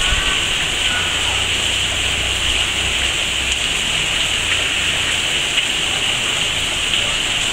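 Heavy rain pouring down in a steady hiss, with a low rumble underneath that fades out about five seconds in.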